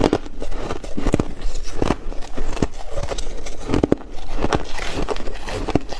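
A person biting and chewing ice close to the microphone: irregular crisp crunches and crackles, several each second.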